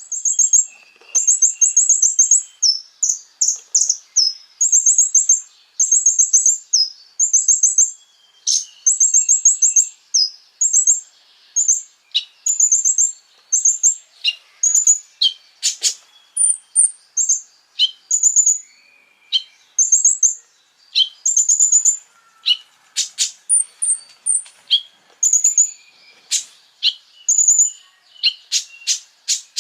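Konin songbird singing: short, high, rapidly ticking trills repeated about once a second, mixed with sharp single chip notes.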